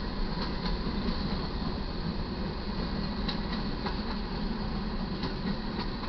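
Freight cars of a slow manifest train rolling past: a steady rumble of wheels on rail, broken by irregular sharp clicks from the wheels and rail joints.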